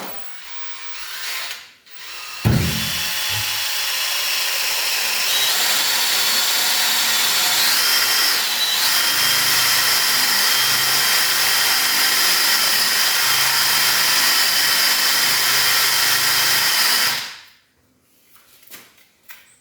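Power drill boring into a plywood door with a bit to cut out the hole for the lock's latch tongue. It starts a couple of seconds in, runs steadily for about fifteen seconds with its whine rising slightly twice, then stops.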